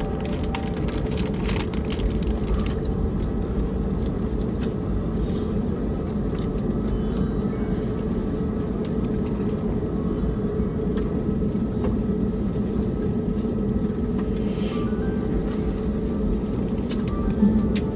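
Steady cabin rumble of an Airbus A321neo taxiing after landing, with a low steady hum under it. A short louder bump comes near the end.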